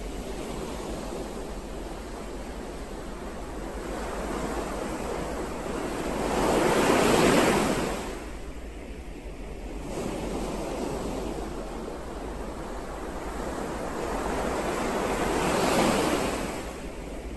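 Ocean waves breaking on the shore over a steady wash of surf, two waves swelling loudest about seven and sixteen seconds in, each rising and fading away.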